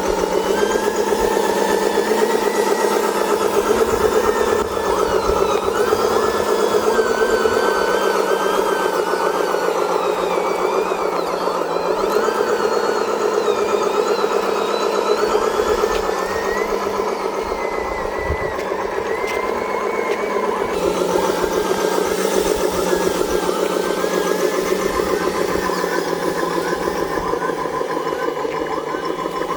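Simulated heavy diesel truck engine sound played by an RC sound module on a 1/10 scale RC dump truck, running steadily with a rough, pulsing beat. A thin whine above it wavers up and down in pitch.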